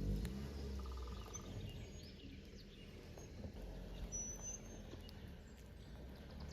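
Scattered faint bird chirps and short whistles over a steady low rumble.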